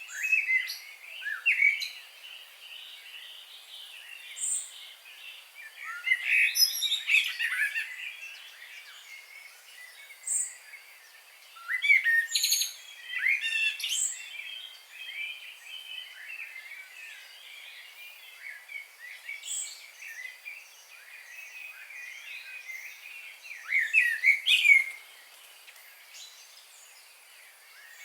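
Several songbirds chirping and singing in quick, overlapping phrases, louder in a few bursts, with a steady faint background hiss.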